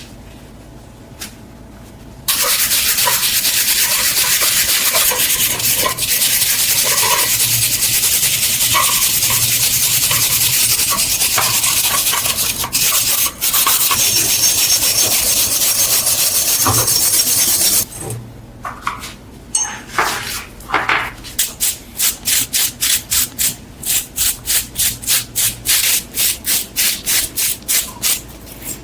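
Abrasive rubbing on the knife: a steady hiss of continuous rubbing that stops suddenly, then quick rhythmic back-and-forth strokes at about three a second.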